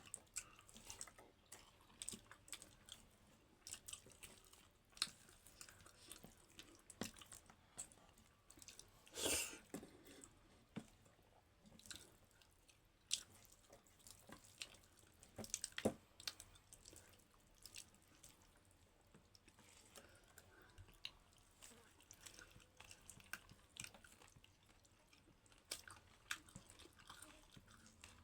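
Close-miked mukbang eating sounds: chewing dhido and chicken gravy, with irregular wet smacks and clicks of the mouth. One longer, louder sound comes about nine seconds in.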